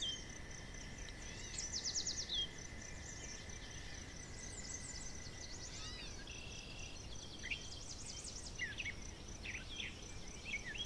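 Faint birdsong from small birds: scattered short chirps and quick trills, with a steady high tone that stops about four seconds in, over a low background hiss.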